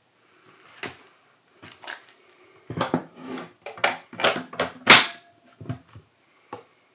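Irregular clicks and knocks from hands handling the camera and its parts, about a dozen in all, the loudest about five seconds in.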